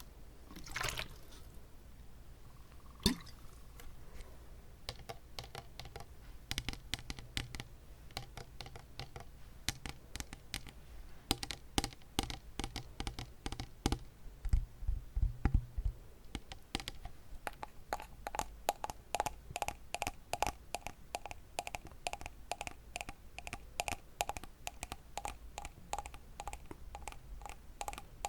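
Close-up wet mouth sounds: rapid clicks and smacks of tongue and lips in a moist mouth, sparse at first and then coming thick and fast.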